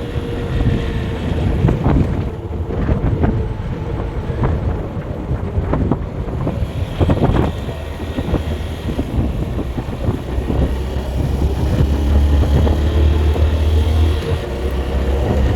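A road vehicle driving along, its engine hum and road noise mixed with wind buffeting the microphone. The low rumble grows louder in the second half.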